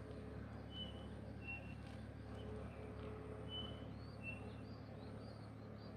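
Chinspot batis calling: a faint series of short whistles, about one a second, over a steady low background hum.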